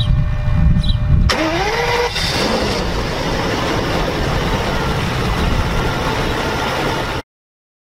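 Low rumble, then about a second in a car engine starts with a sudden burst and a tone rising in pitch as it catches, and runs on steadily. The sound cuts off abruptly near the end.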